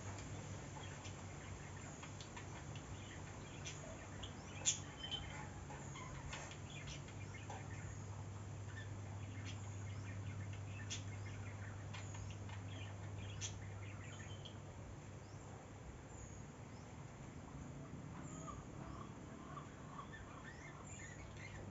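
Small birds chirping and calling in short scattered notes over a low steady hum. A single sharp click about five seconds in is the loudest sound.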